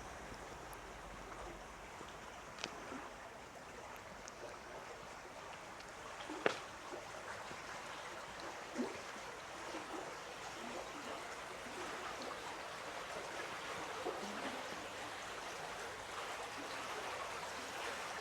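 Stream running, a steady rush of flowing water that grows a little louder toward the end. A few short clicks are heard over it, the sharpest about six and a half seconds in.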